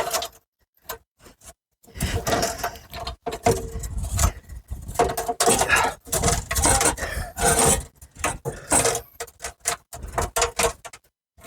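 Metal scraping and clanking as a diesel exhaust aftertreatment canister (DOC/DPF) is worked up into its mounting under a semi truck, with irregular scrapes and knocks for several seconds and scattered clicks at the start and end.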